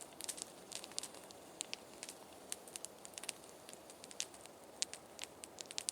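Wood fire crackling faintly: a scatter of irregular small pops and ticks over a light hiss.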